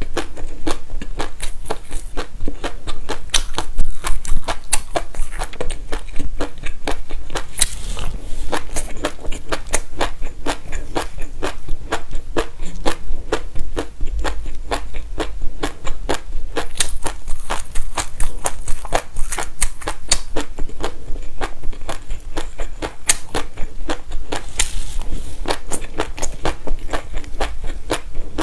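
Close-miked chewing of a mouthful of dry black and white sesame seeds: a dense, irregular run of crisp crunches and crackles.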